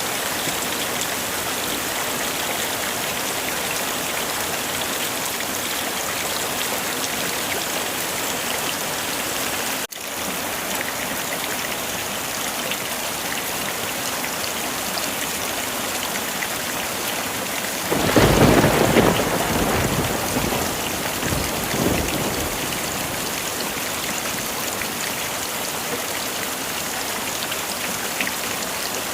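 Heavy rain falling steadily. About two-thirds of the way in a thunderclap breaks out, loud and low, and rumbles for about four seconds before fading back into the rain.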